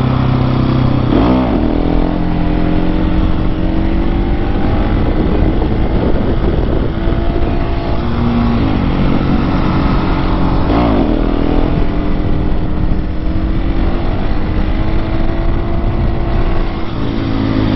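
Husqvarna 701 Supermoto's single-cylinder engine running under way, heard from the riding bike, with a steady noisy rush over it. The engine pitch changes about a second in and again around eight and eleven seconds.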